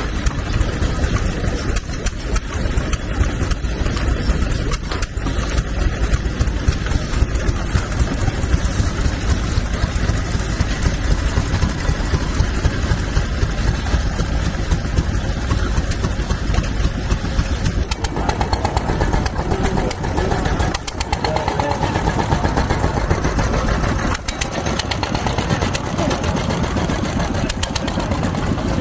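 Vintage stationary engines running steadily, with a rapid, even beat of firing strokes.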